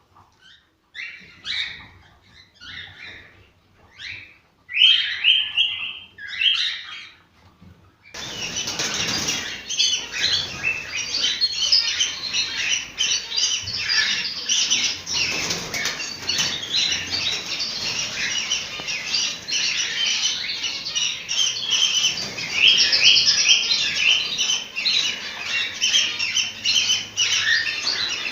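Cockatiels calling: a few separate short chirps over the first several seconds, then about eight seconds in it changes suddenly to dense, continuous chirping of many birds at once.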